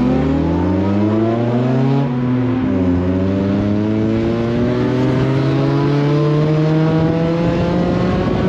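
Car engine accelerating under load, its pitch rising, dropping at a gear change about two seconds in, then climbing steadily again through the next gear. Heard through the open driver's window.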